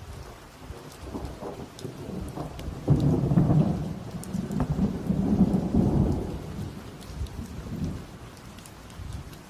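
A thunder rumble over steady rain: it builds about a second in, breaks in sharply about three seconds in, rolls on loud for a few seconds, then dies away near the end.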